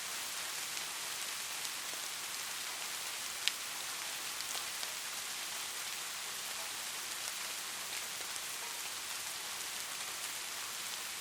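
Light rain falling steadily, an even hiss with scattered drop ticks, one sharper drop about three and a half seconds in.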